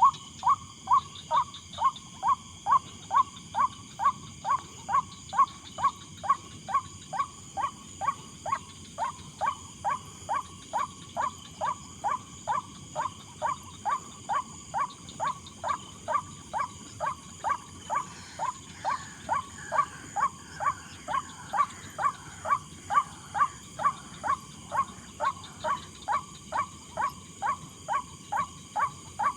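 White-breasted waterhen call, a short 'ruak' note repeated evenly about twice a second without a break.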